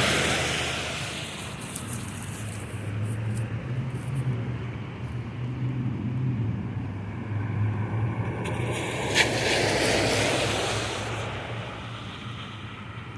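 Road traffic on wet pavement: a passing vehicle's tyre hiss fades out over the first couple of seconds, and another vehicle swells past about nine to ten seconds in, over a steady low hum.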